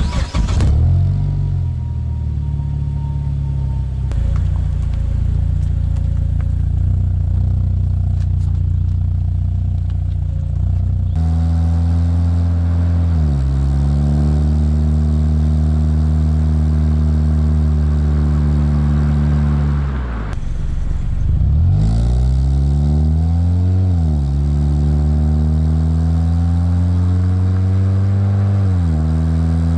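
2011 Mazda 6's 2.5-litre four-cylinder engine running through a newly fitted DNA Motoring aftermarket muffler, mostly at a steady idle with a few brief revs that rise and fall in pitch.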